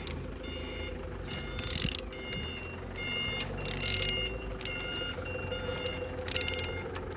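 Several short rasping bursts as a used Z16XER 1.6-litre four-cylinder petrol engine is turned over by hand with a wrench, over a steady low hum and intermittent high electronic beeping.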